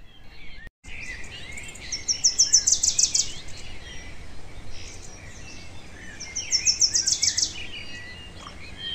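Small birds chirping, with two short spells of rapid, high trilling.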